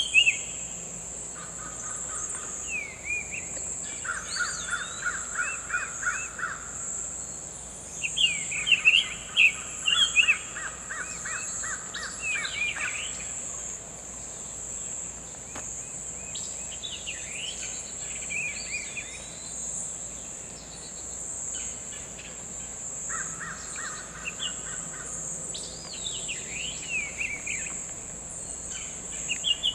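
Summer tanager singing short whistled phrases of rising and falling notes, in several bouts. Between them come bursts of rapid, evenly repeated lower notes, over a steady high insect drone.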